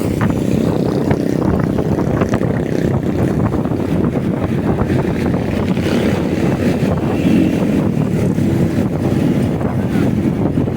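Motorcycle riding noise: a steady low rumble of wind buffeting the microphone mixed with engine and road noise, with no clear changes.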